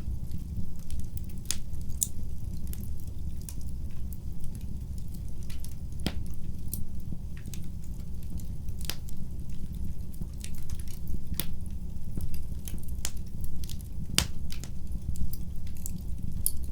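Wood fire burning in a fireplace, crackling: irregular sharp pops and snaps, a few of them louder, over a steady low rush of the flames.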